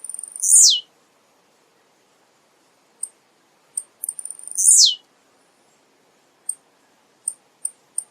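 Male blue-black grassquit (tiziu) singing. Two songs about four seconds apart, each a quick run of high ticks that sweeps down into a falling note, with single high chips between them.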